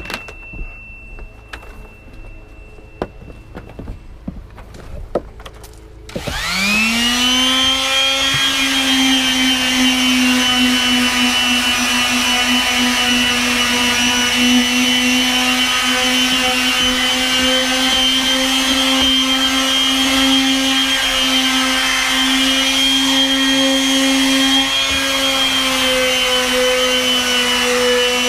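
Makita random orbit palm sander switched on about six seconds in, its motor quickly rising in pitch to a steady high whine, then running evenly as it sands wood. Before it starts there are only a few small clicks and knocks.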